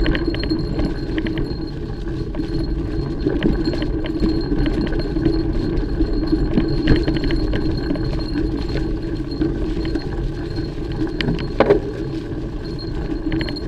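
Mountain bike being ridden along a dirt trail: steady tyre and riding rumble, with the chain and bike parts rattling and clinking over bumps throughout.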